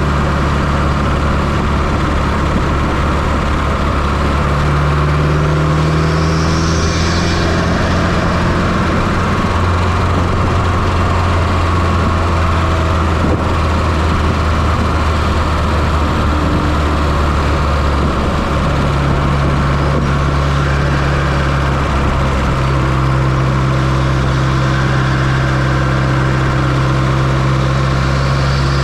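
Fiat Coupe's 2.0 16-valve turbocharged four-cylinder engine running, heard close up from inside the engine bay. The steady engine note steps to a different pitch a few times.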